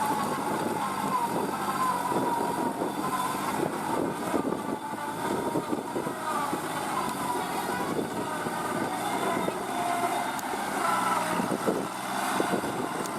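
Kubota NeoStar B2441 mini tractor's three-cylinder diesel running steadily, with a fast clatter and a whine that wavers up and down in pitch.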